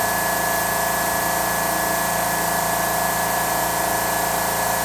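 Electric air compressor (brake air pump) of an electric truck running steadily after the air pressure was lowered, a hissing mechanical noise with a steady whine.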